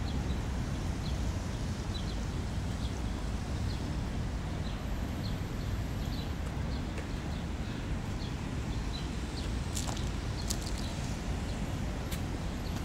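City street ambience: a steady low rumble with short high chirps about every half second, like small birds, and a few sharp clicks near the end.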